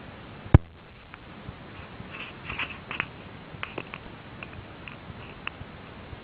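A sharp knock about half a second in, followed by scattered light clicks and brief rustling.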